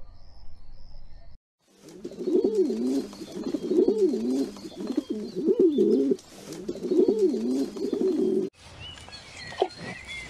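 Feral pigeons cooing, about four rolling coos that rise and fall in pitch, one after another, then cutting off suddenly near the end.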